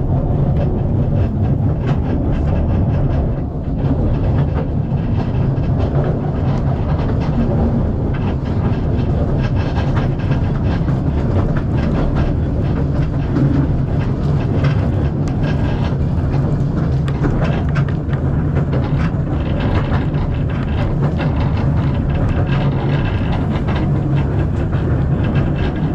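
Narrow-gauge tourist train running along the track: a steady low rumble of the carriage with irregular wheel clatter over the rails.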